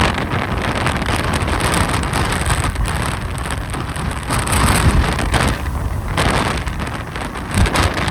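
Strong Santa Ana wind gusting and buffeting the microphone: a low rumble under a rushing hiss that swells and eases with each gust.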